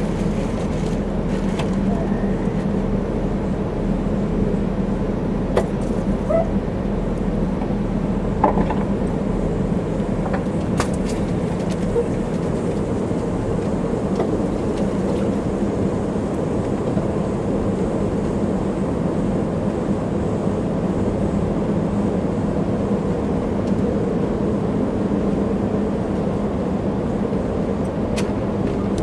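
Steady running noise of a passenger train car in motion, heard from inside: a continuous rumble of wheels on rails with a low steady hum, and a few scattered clicks.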